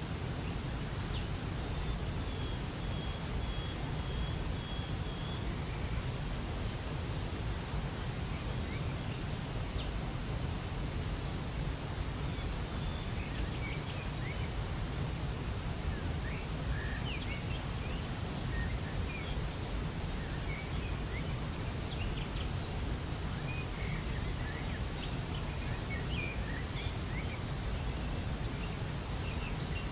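Waterfall's steady rushing water with small birds chirping over it. One bird holds a high whistle for a few seconds near the start, and the scattered chirps get busier from about the middle on.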